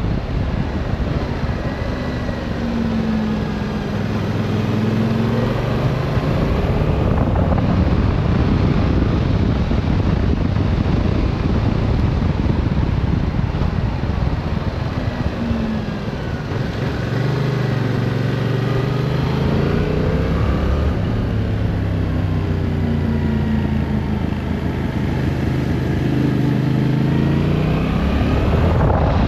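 Yamaha Tracer 7's 689 cc parallel-twin engine under way on a winding road, its note rising and falling again and again as the throttle is opened and eased, over a steady rush of wind and road noise.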